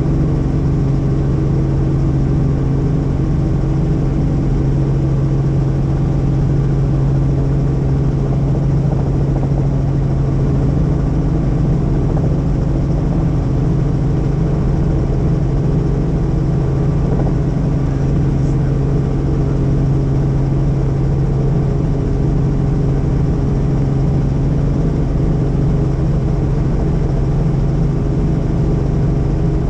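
Helicopter running steadily in flight: a constant loud low drone of engine and rotors, with a strong unchanging hum.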